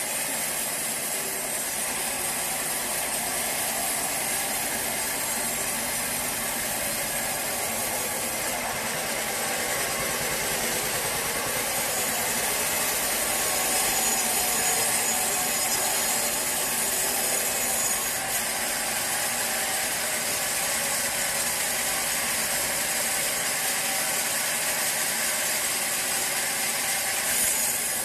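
Sawmill saw cutting through a teak log: a steady hiss of the blade in the wood, a little louder through the middle stretch.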